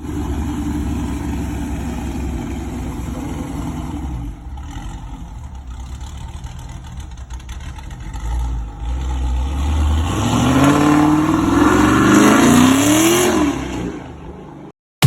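Car engine running with a low rumble, then accelerating hard, its pitch rising for about three seconds before falling away near the end.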